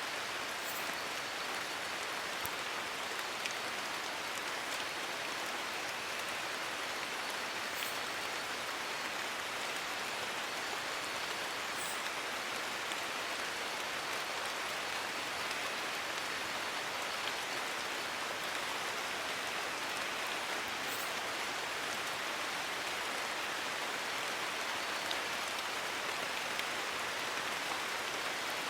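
Steady rain falling, an even patter with a few louder single drops standing out now and then.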